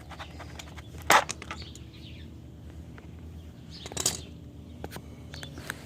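Metal hand tools, a socket set, being handled against the minibike: scattered clicks with a loud clank about a second in and a short bright rattle around four seconds in.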